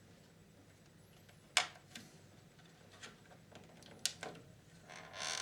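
A few sharp clicks and light knocks from handling the VCR's parts, the loudest about one and a half seconds in, then a rustle near the end.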